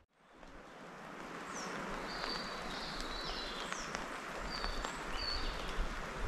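Small songbirds calling in woodland: a string of short, high chirps and brief whistles, some sweeping downward, over a steady rushing background. The sound fades in just after the start.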